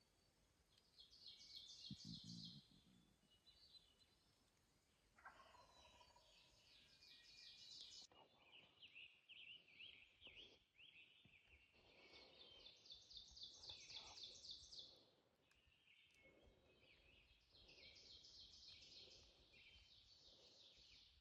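Faint wild bird calls: several trilled, rattling bursts a few seconds apart, with a wild turkey tom gobbling among them.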